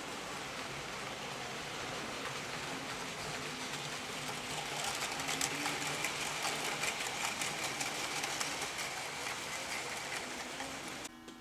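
00 gauge model train running along the layout track. It grows louder about halfway through, with a quick run of wheel clicks, then cuts off abruptly just before the end.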